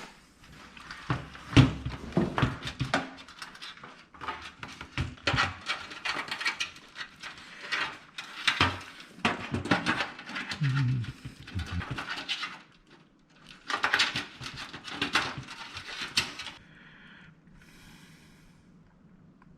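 Irregular clicks, knocks and rustling of computer parts and case panels being handled and fitted, with a few duller thuds; the handling stops about three seconds before the end.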